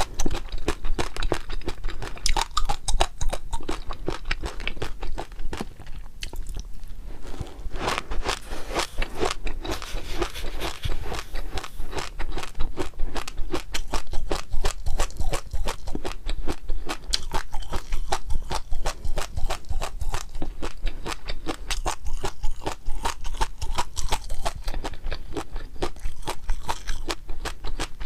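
Close-miked chewing of crunchy food, with a dense, irregular run of crisp crunches.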